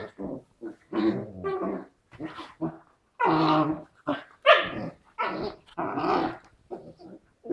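Two dogs play-fighting: a rapid string of short growls and barks, one after another with brief gaps.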